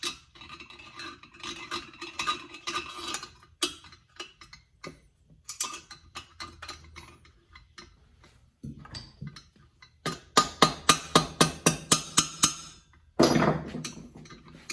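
Hand tools clicking and knocking against the metal and plastic parts of a chainsaw being put back together. Two-thirds of the way through comes a quick, even run of about a dozen sharp clicks, followed shortly by a brief scraping rustle.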